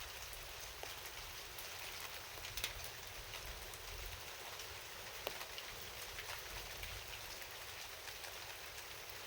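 Steady rain, with individual drops tapping sharply now and then.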